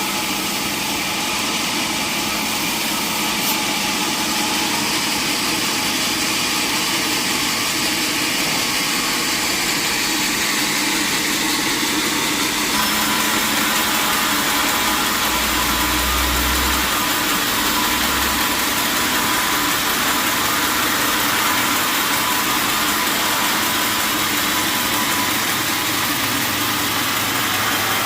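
Sawmill machinery running steadily, a dense even noise with a steady hum; about halfway through the sound turns brighter and harsher.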